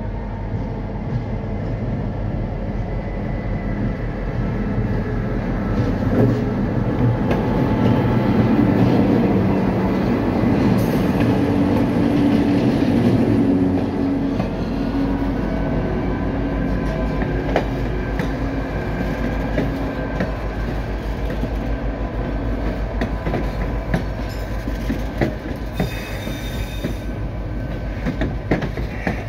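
White Pass & Yukon Route narrow-gauge passenger train pulling past close by. The locomotive's engine is loudest for several seconds early in the middle, then the passenger cars roll past with wheels clicking over the rail joints.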